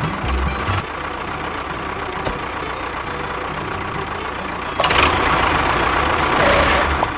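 Vehicle engine idling steadily, with a louder rushing noise laid over it from about five seconds in until just before the end.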